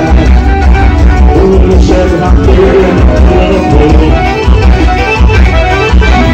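Loud live band music with a heavy, steady bass beat.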